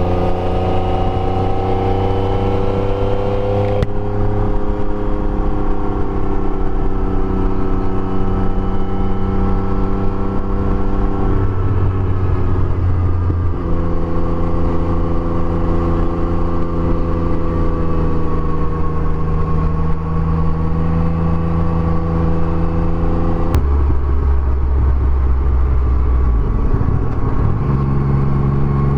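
Yamaha Tracer motorcycle engine running under way. Its pitch drifts gently and jumps to a new level several times as the gears change.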